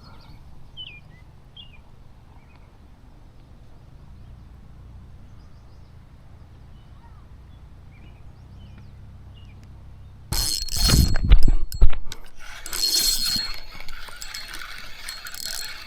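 Faint bird chirps over a low hum, then about ten seconds in loud knocks and rustling as the fishing rod is grabbed. A fishing reel's clicking, ratcheting whir follows while a hooked fish is reeled in.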